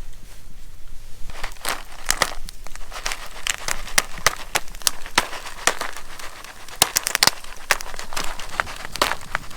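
Popcorn kernels popping inside a foil-topped stovetop popcorn pan set on a campfire: sharp, irregular pops starting about a second in and coming more and more often.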